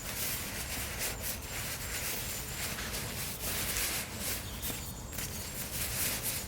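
Footsteps crunching and rustling through dry leaf litter and twigs on a woodland floor, in an irregular run of crackles.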